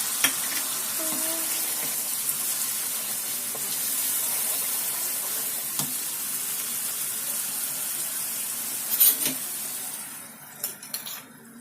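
Chili-garlic tomato sauce sizzling in hot oil in a pan as it is stir-fried, with a few sharp clicks of the stirring utensil against the pan. The sizzle drops away suddenly about ten seconds in.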